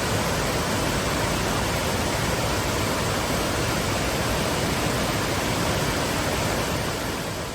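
Waterfall: a steady, even rush of falling water, fading out near the end.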